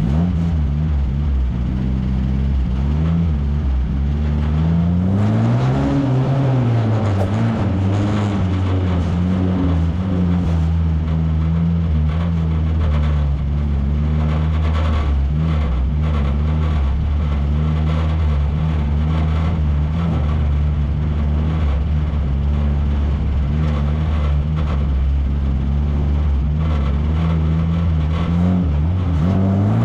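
1300cc stock car engine running hard during a race heat, its pitch rising and falling as it revs up and eases off, then holding steady.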